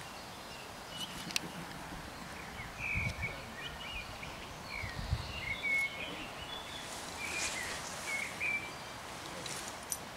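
A small bird chirping in short, scattered notes over steady outdoor background noise, with a few low thuds.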